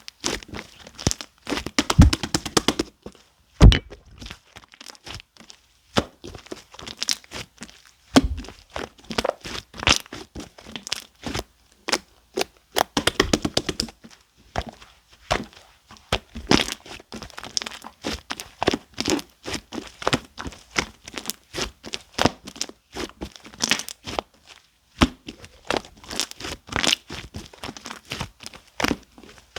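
Orange clear slime mixed with shaving foam being squished, stretched and pressed by hand, giving dense runs of sticky pops and crackles. A few louder thuds come in the first eight seconds or so.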